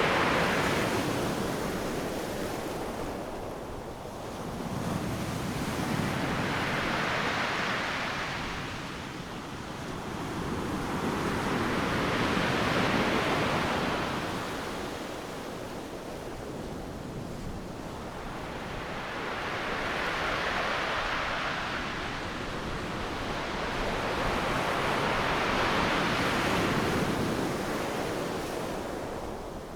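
Ocean surf: waves breaking and washing up a sandy beach one after another, the roar of each swelling and fading about every six to seven seconds. Wind on the microphone.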